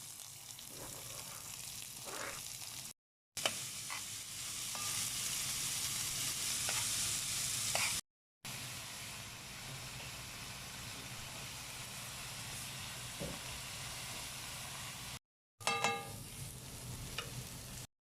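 Food sizzling in hot oil in a pan while it is stirred, in several short stretches cut apart by brief silences. Near the end there is a short, sharp sound with a ringing tone.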